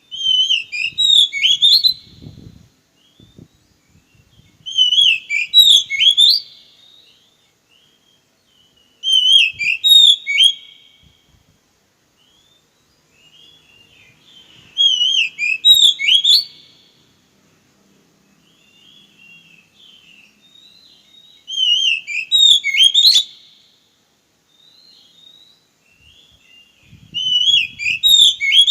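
Oriental magpie-robin (kacer) singing: a loud, whistled phrase of about two seconds, repeated six times with nearly the same pattern every six seconds or so.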